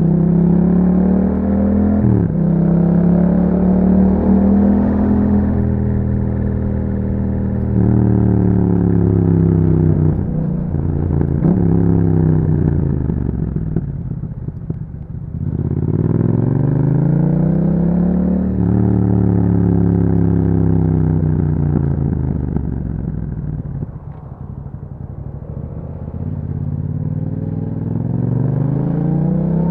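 A 2021 Yamaha MT-07's 689 cc parallel-twin engine runs through an Akrapovic exhaust with a dB killer fitted. The bike accelerates hard with quick upshifts, each one a sudden drop in pitch. It eases off and slows about halfway, then pulls up through the gears again, slows once more, and starts revving up again near the end.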